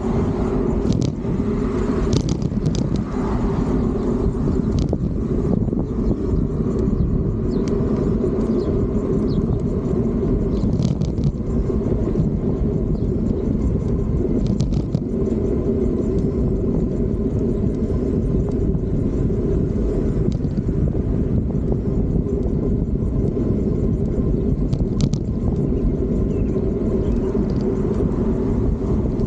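Steady rumble of a Fiido D3 Pro electric bike in motion, with a few faint clicks along the way.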